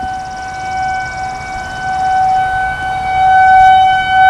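Outdoor tornado warning siren wailing at one steady pitch, growing louder about three seconds in, over a low rumbling noise.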